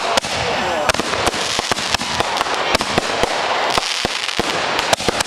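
Fireworks going off: dense, continuous crackling with frequent sharp, irregular bangs, several a second.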